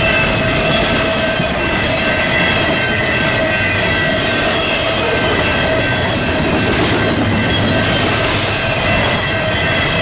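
BNSF freight train rolling past close by, its cars making a steady loud rumble with several high, steady whining tones over it.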